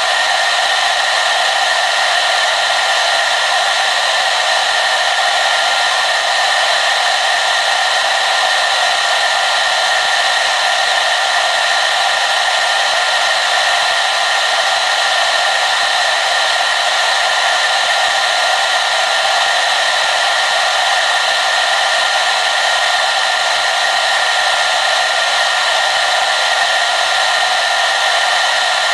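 Hair dryer running steadily: an even airy rush with a faint steady whine, unchanging throughout.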